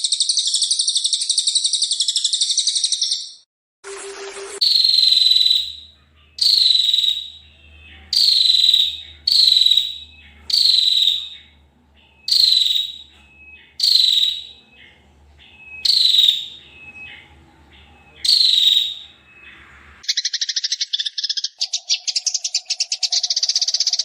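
Recorded songbird song: first a rapid, dense chattering trill, then after a short break a single sharp high call that drops in pitch, repeated about every second and a half, roughly nine times. Near the end a fast buzzing trill starts up again.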